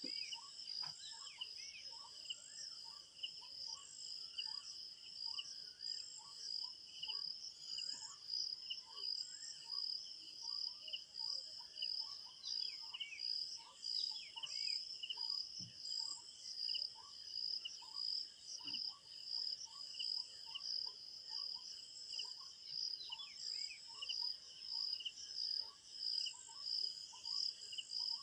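Crickets chirping in a steady, fast-pulsing chorus. Over it come scattered bird chirps and a short call that repeats about once or twice a second.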